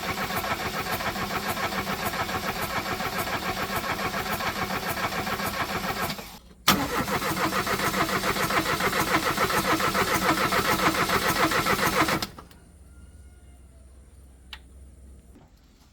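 A car engine being cranked by its starter motor in two long attempts of about six seconds each, with a short pause between. The fast, even chugging cuts off abruptly after the second attempt.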